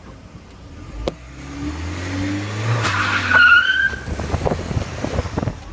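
Volkswagen Golf wheelspinning: the engine revs up as the car pulls away and the front tyres squeal briefly a little past the middle, followed by a patter of sharp clicks and crackles as it moves off.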